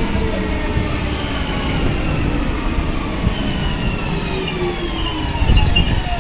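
Electric commuter train's variable-frequency traction drive whining in several tones that fall steadily in pitch as the train slows, over wheel and track rumble; the rumble swells louder near the end.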